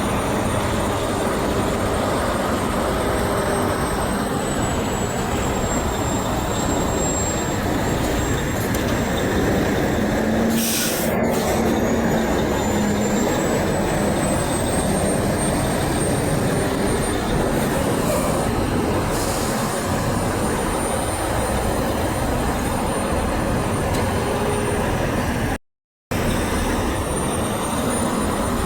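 Steady, loud rumble of heavy road traffic, with semi trucks rolling past; no clear horn blast. The sound cuts out completely for a moment near the end.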